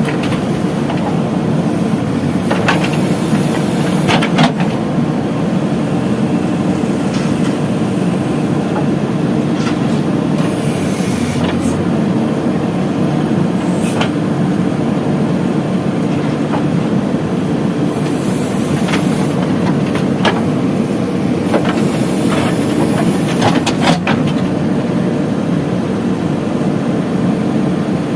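Heavy diesel engine of a backhoe loader running steadily under work, with scattered sharp knocks and clanks, typical of the bucket and soil striking metal during loading.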